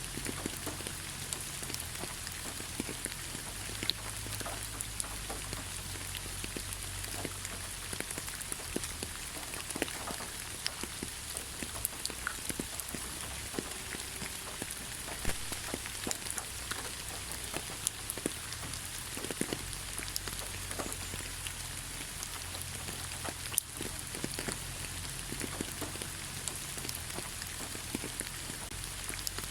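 Steady rain falling on leaves, an even hiss dotted with many separate drop ticks.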